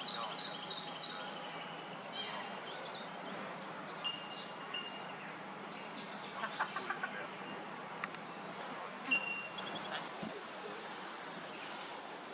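Several small birds calling: short high whistles and chirps, some in quick runs, over a steady background hiss.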